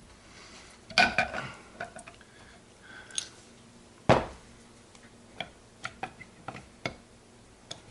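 Steel gearbox parts clinking as they are handled: a short ringing metallic rattle about a second in, a sharp knock around four seconds in, then several light ticks.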